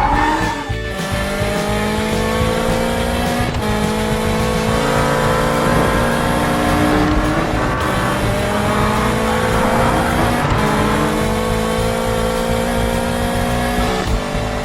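Cartoon car engine sound effects: several engines running continuously, their pitch sliding slowly up and down.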